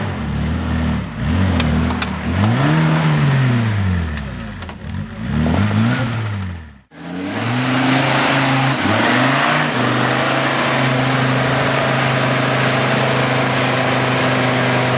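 Off-road 4x4 engine revving up and down several times in quick succession. After an abrupt cut about seven seconds in, an engine blips twice and then holds a steady high rev under load.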